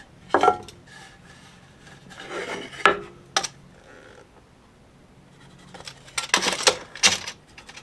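Wooden boards and hand tools being handled on a workbench: a few separate knocks and short scrapes, then a cluster of clatters near the end.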